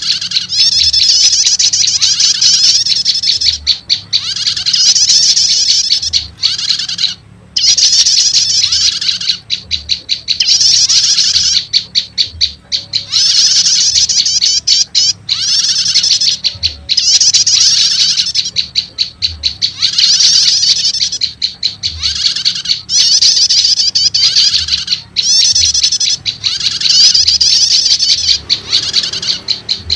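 Prenjak lumut (Indonesian small songbird) calls played as a trapping lure: fast, high chattering trills in repeated bursts of a second or two, with short breaks between them.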